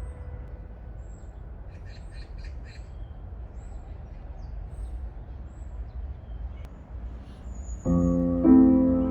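Birds calling over a low steady rumble: thin high chirps, and a short run of harsh calls about two seconds in. Piano music comes in near the end.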